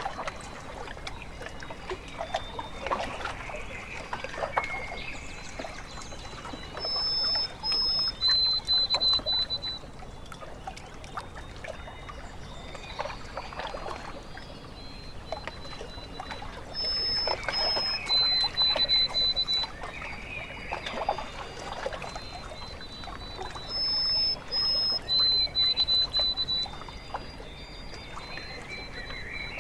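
Water lapping and trickling at a lake shore, overlaid three times by a bird's song phrase of high, flat whistled notes, a higher pair followed by a lower run.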